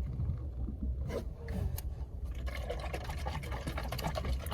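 Juice being sipped from a bottle: faint liquid sounds and small scattered clicks over a low rumble.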